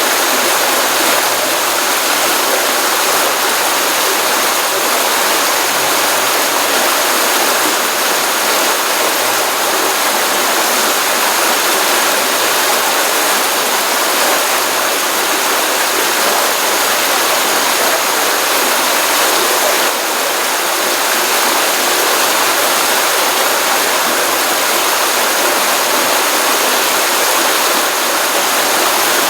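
Stream water running out of a pond, a steady, loud rush and splash after a rainstorm.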